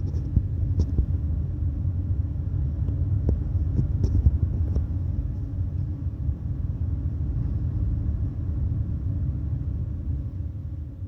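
Deep, steady rumble of a large car ferry's machinery during berthing, heard from inside a cabin, with a few light clicks; it fades out near the end.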